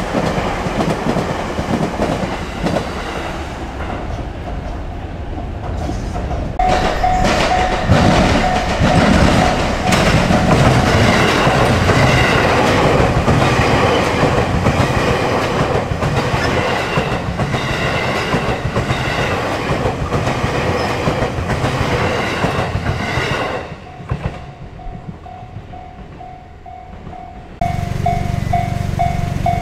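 Electric passenger train passing close by on the JR Chūō Main Line, its wheels clattering over the rail joints with a steady rumble. The sound drops away suddenly about three-quarters of the way through, leaving a repeating ringing tone, and a new steady sound starts abruptly near the end.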